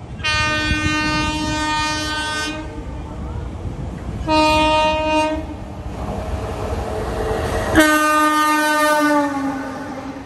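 Train horn on an Indian Railways locomotive, blown three times: a long blast, a shorter one, then a long one whose pitch drops as the train passes. Underneath is the rumble of the train running through.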